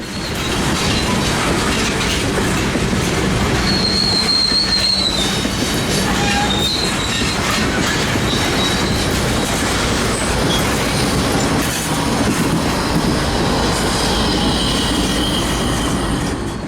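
BNSF aggregate freight train rolling past, its wheels clattering over the diamond crossing, with a brief high wheel squeal about four seconds in.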